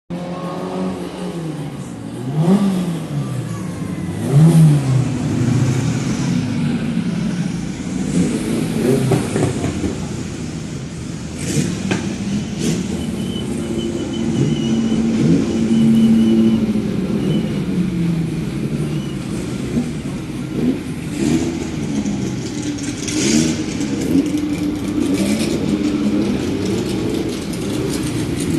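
Engines of several old formula race cars running and revving, their pitch rising and falling again and again and overlapping.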